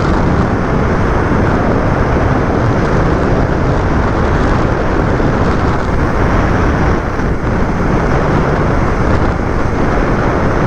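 Steady road and wind noise of a moving vehicle.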